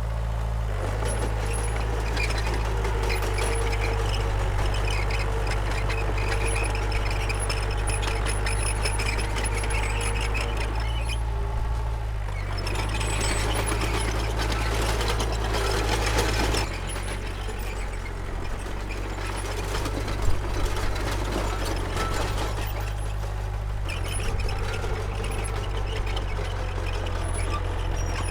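Diesel engine of a Komatsu D31P crawler bulldozer running steadily under load, its sound shifting a little under halfway and easing back past the middle, with a single sharp knock about two thirds through.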